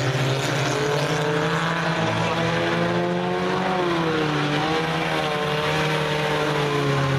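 Several race car engines running at speed together, their pitches rising and falling as the drivers lift and get back on the throttle around the track.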